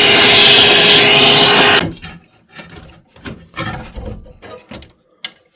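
A loud, steady rushing noise that cuts off abruptly about two seconds in, followed by scattered light clicks and knocks, like tools and parts being handled.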